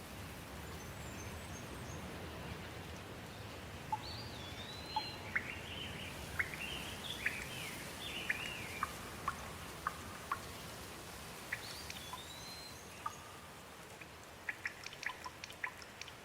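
Steady rain, with a bird calling over it in short chirps and whistles from about four seconds in. Near the end comes a quick run of sharp drips.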